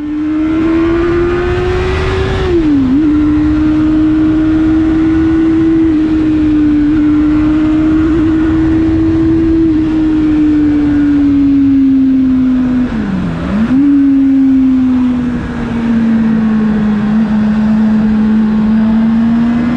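Motorcycle engine running at road speed, recorded through a GoPro Hero 7 in a Windslayer wind muff so that wind noise is kept low. The engine's steady pitch drops briefly twice, about three seconds in and again near thirteen seconds, then settles back.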